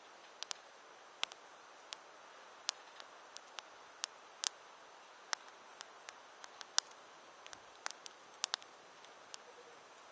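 Wood campfire crackling: irregular sharp pops and snaps, roughly two a second, over a faint steady hiss.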